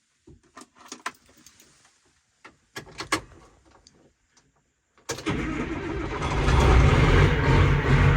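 A few scattered clicks and knocks, then about five seconds in a big diesel tractor engine starts and runs, its sound building a second later. The engine is the John Deere 9200 articulated tractor's.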